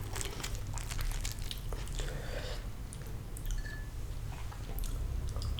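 Close-miked chewing of fried fish: irregular wet clicks and crisp crackles from the mouth over a low steady hum.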